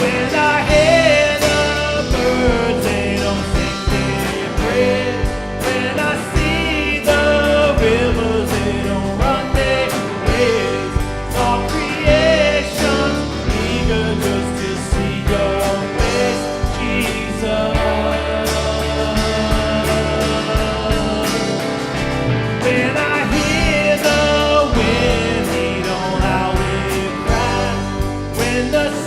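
Live worship band music: a singing voice over guitar and a drum kit, steady and full throughout.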